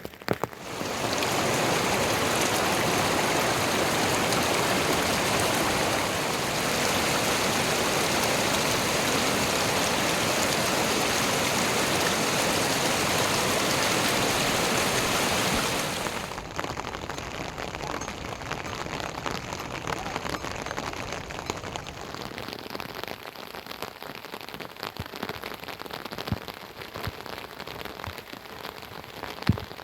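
Heavy rain falling in a dense, steady hiss. About halfway through it changes abruptly to quieter rain with separate drops ticking.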